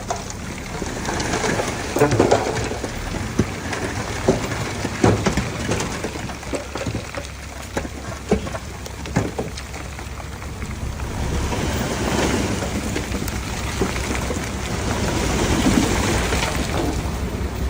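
Komatsu D31P crawler bulldozer at work: its diesel engine keeps up a steady low rumble under a noisy wash of sound, with irregular sharp knocks and clanks scattered through.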